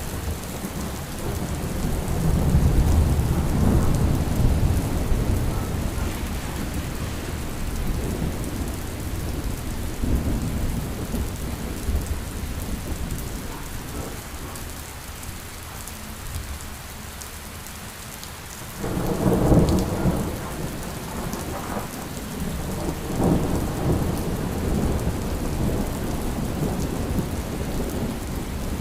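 Steady rain with thunder rumbling, building to a long roll a few seconds in and breaking out again suddenly and louder about two-thirds of the way through.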